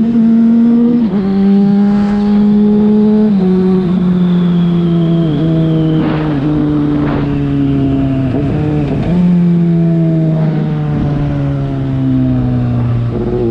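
Yamaha FZ6's 600 cc inline-four running through a LeoVince aftermarket exhaust while riding. The engine note drops twice in quick steps with gear changes, then sinks slowly as the bike slows, with a jump up in pitch at a downshift about nine seconds in.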